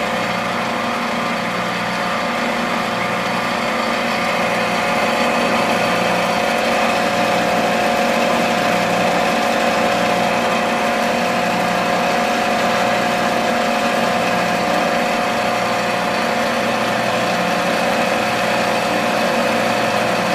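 Small motor of a model grain thresher running at a steady speed, a constant droning hum that does not change.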